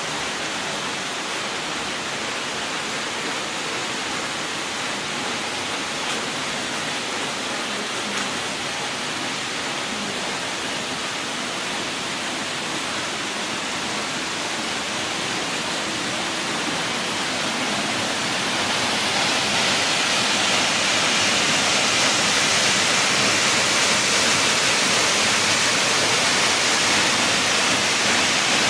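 Waterfall rushing in a steady roar of falling water, growing louder about two-thirds of the way through.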